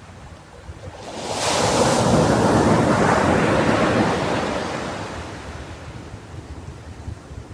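Ocean wave breaking on a sandy beach: the surf swells about a second in, crashes and then washes out and fades slowly over the next few seconds. Wind rumbles on the microphone underneath.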